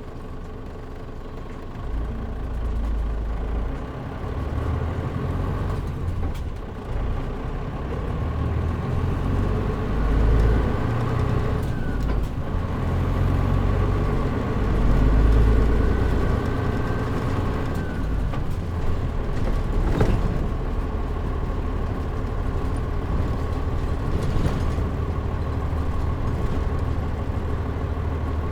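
Mitsubishi Fuso Aero Star city bus (KL-MP37JM, turbocharged) engine and drivetrain, heard from inside the bus. It runs quietly for about two seconds, then the bus pulls away and accelerates, its whine rising in steps with breaks around the gear changes, before settling to a steady cruise. A single click comes about two-thirds of the way through.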